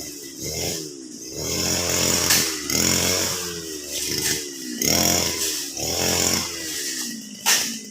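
Two-stroke brush cutter engine running, its pitch repeatedly dropping and rising again as the throttle is eased off and opened while cutting grass. There is a sharp hit near the end.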